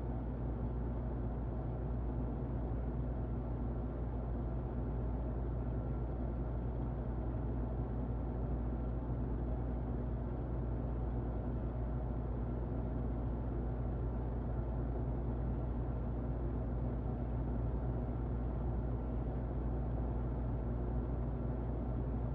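Muffled electric fan running steadily: an even, low rushing noise with a faint steady hum through it.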